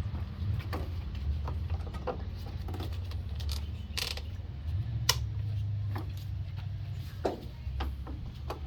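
Hand tools clicking and clinking on metal parts of a lawn tractor being taken apart, in scattered irregular knocks, over a steady low hum.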